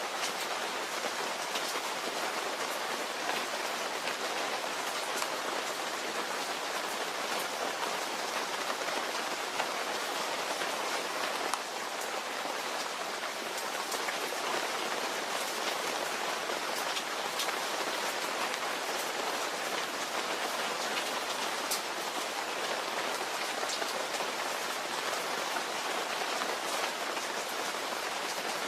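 Steady rain falling on a surface, a dense even hiss with sharp ticks of single drops scattered through it.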